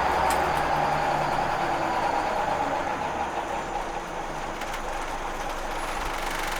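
Interior running noise of a Wright Solar-bodied Scania L94 single-deck bus: the engine and drivetrain hum steadily with a constant whine, easing off about halfway through and building again near the end.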